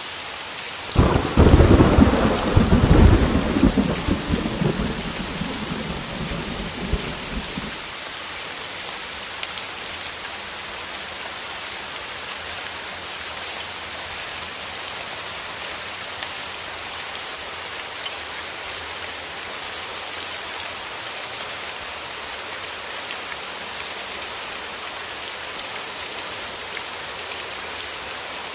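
Heavy rain falling steadily as a continuous hiss. About a second in, a loud clap of thunder rumbles and dies away over several seconds, leaving only the rain.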